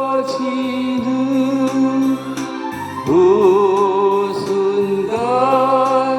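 A voice singing a slow Korean song in long held notes, the words "꺼지는 그" ("going out, that") drawn out across several seconds, with the pitch changing about three seconds in and again about five seconds in.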